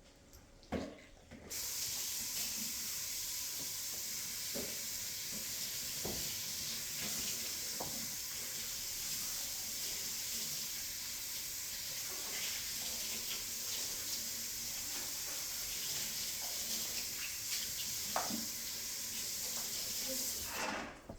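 Water running from a tap into a sink: a steady rushing hiss that starts abruptly about a second and a half in and stops abruptly near the end, with a few light knocks.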